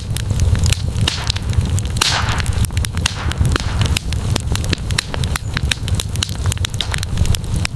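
Wood campfire crackling, with many sharp pops and snaps over a steady low rumble. A brief hiss comes about two seconds in.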